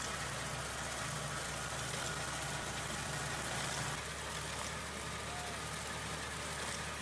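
Tractor engine running steadily with a low hum, its tone changing slightly about four seconds in.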